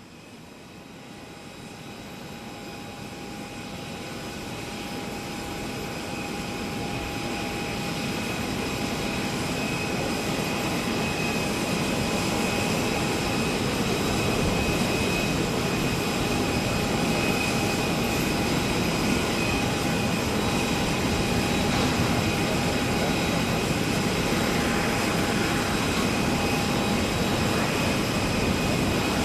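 Airbus A380 jet engines running steadily: a roar with a high whine on top, fading in over the first ten seconds or so.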